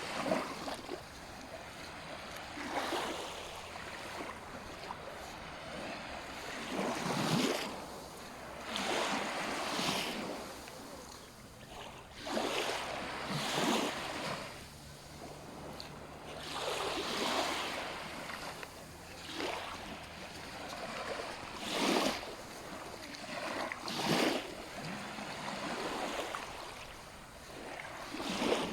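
Small sea waves breaking and washing up on a sandy beach, one surge every couple of seconds.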